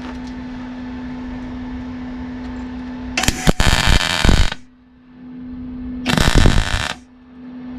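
Welder arc on car body sheet metal: two short bursts of crackling, about three seconds and six seconds in, over a steady hum. The old panel metal is too thin and rotten, and the weld is blowing holes through it.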